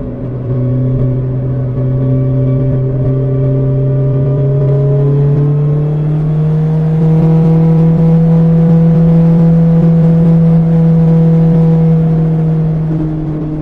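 BMW S1000XR's inline-four running through an Akrapovic exhaust while riding, its pitch rising gradually over the first half as the bike speeds up, holding steady, then easing off slightly near the end.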